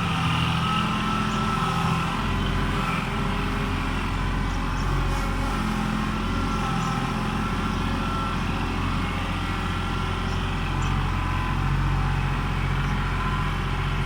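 Old tractor engine running steadily.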